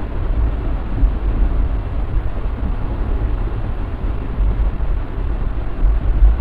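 Ride noise of a moving passenger train: a steady deep rumble of the coach and its wheels on the track, with irregular swells.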